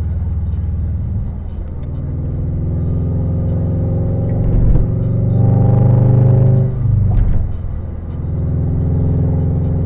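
A car's engine and road rumble while driving, growing louder toward the middle and then dropping off suddenly about seven seconds in.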